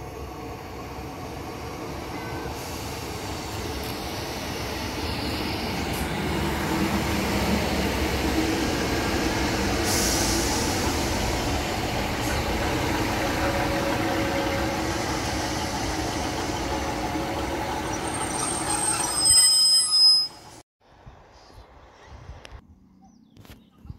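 Two-car diesel multiple unit running along the platform, its engine and wheels growing louder over several seconds and holding steady. Near the end there are high-pitched squeals from the train, then the sound cuts off abruptly to quiet station background.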